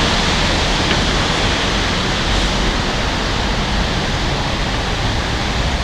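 Steady rushing background noise with a low rumble underneath, even throughout, with no distinct events.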